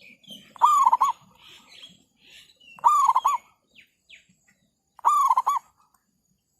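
Zebra dove cooing: three short phrases, each a quick run of a few wavering notes, about two seconds apart.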